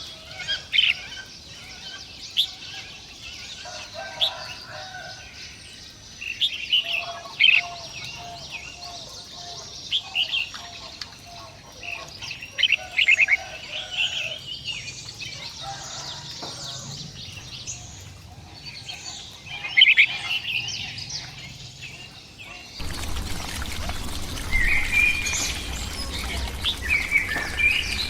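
Birds chirping and calling, many short high notes coming in quick clusters. About 23 seconds in, the sound changes abruptly to a louder steady rushing noise, with more bird calls over it.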